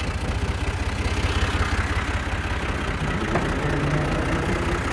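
Farm tractor's diesel engine idling steadily, a fast low chugging beat.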